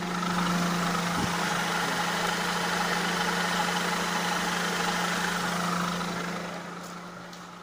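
2003 Mercedes-Benz C-Class (W203) engine idling, a steady hum under a noisy running sound that eases off about six seconds in.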